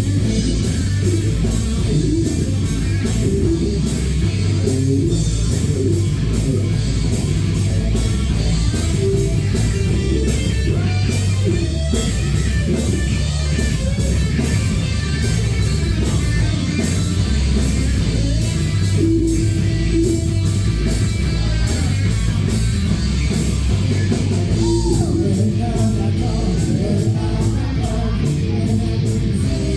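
Live rock band playing a loud song with guitar, drums and a singer.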